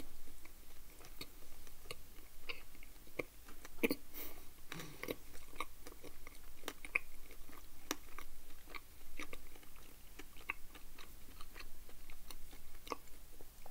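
A person chewing Toblerone milk chocolate close to the microphone: irregular small crunches and mouth clicks, several a second.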